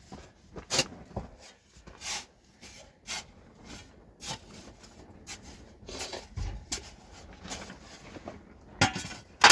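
Irregular knocks, clicks and scrapes of objects being handled, with a louder knock near the end.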